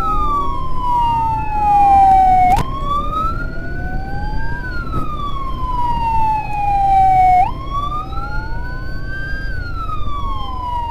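Electronic emergency siren wailing in slow cycles of about five seconds. Each cycle slides down for about three seconds, then jumps up and climbs again. A fainter second siren tone crosses it, and vehicle engine rumble runs beneath.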